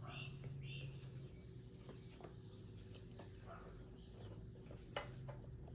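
Quiet background: a bird chirps twice near the start over a faint steady low hum, with a few light clicks.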